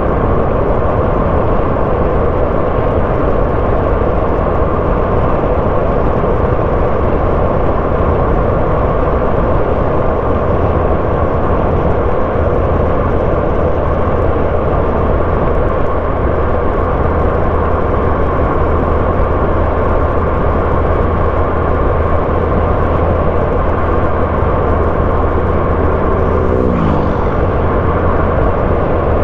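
A car's engine and tyres on the road, heard from the moving car as a steady rumble and hiss. Near the end there is a short falling whine.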